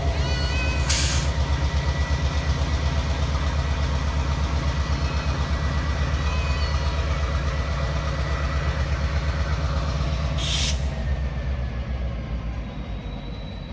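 Diesel locomotive engine running under load with a deep, rapidly pulsing rumble as it shoves freight cars back on a siding. There are two short bursts of hiss, one about a second in and one later, and the rumble fades over the last couple of seconds.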